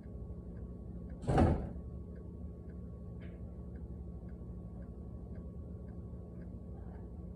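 A single short bang a little over a second in, with a faint clock ticking about twice a second and a steady low hum.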